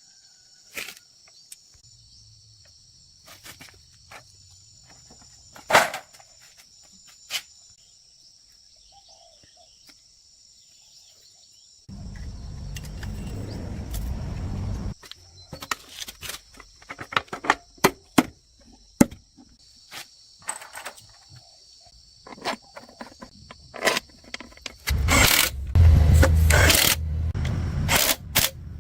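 Scattered sharp clicks and knocks, with a few seconds of dense noisy clatter about halfway through and a louder spell near the end, over a steady high-pitched insect chirring.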